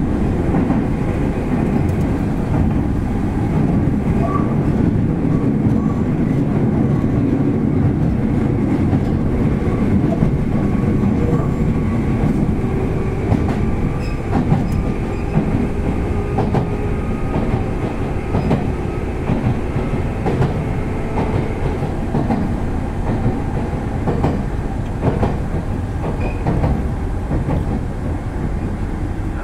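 Running sound inside a Toyohashi Railway 1800 series electric train car under way: a steady rumble of wheels on rail, with a faint whine and the clicks of rail joints. It grows a little quieter near the end.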